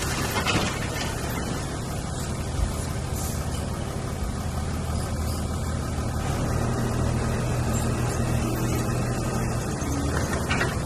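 Heavy diesel engine running steadily at a constant speed, a low even drone with a couple of faint knocks in the first few seconds.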